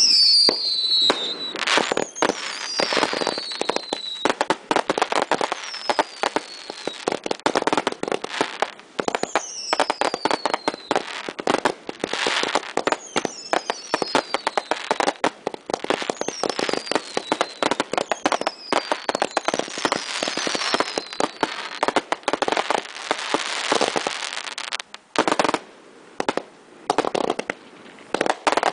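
Alamo 1.4G consumer fireworks finale firing in rapid succession: a dense, continuous barrage of bangs and crackling with repeated falling whistles. The barrage thins briefly near the end, then more bangs follow.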